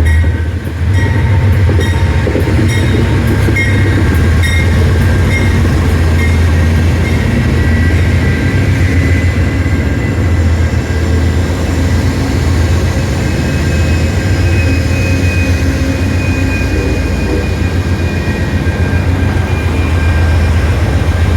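New River Train excursion passenger train passing at close range: a steady low rumble, wheels clicking over rail joints in the first few seconds, and thin high-pitched wheel squeal drifting in pitch.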